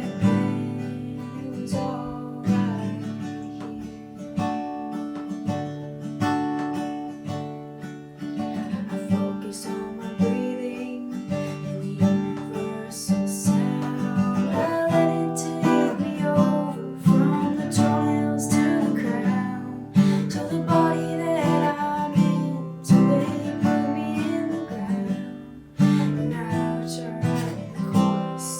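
Acoustic guitar being strummed, chords ringing and changing every second or two.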